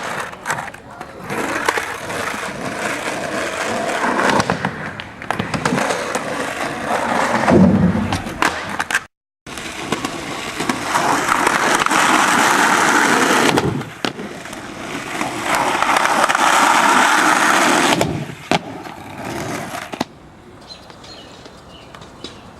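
Skateboard wheels rolling hard on pavement, with sharp clacks of the board popping and landing, across several clips cut together; the sound drops out completely for a moment about nine seconds in.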